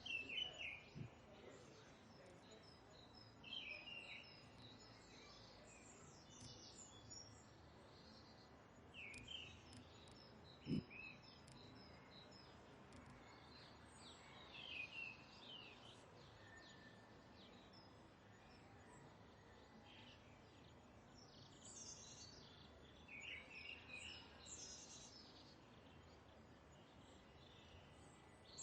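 Birds chirping and trilling in short scattered bouts over a faint steady background hiss. A single short, dull thump about eleven seconds in.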